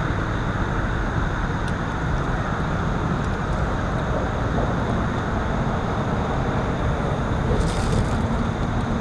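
Boat motor running steadily: an even rumble with a faint high whine.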